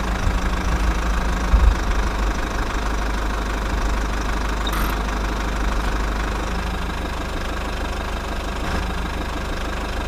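Small diesel engine running steadily with a fast, even knocking beat.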